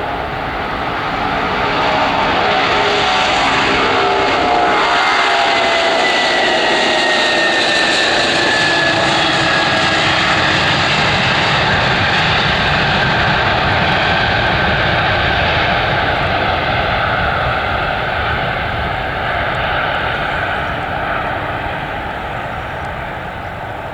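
A large cargo aircraft's engines passing close by: a loud, steady roar that swells over the first couple of seconds, with whining tones dropping in pitch as it goes past, then slowly fading near the end.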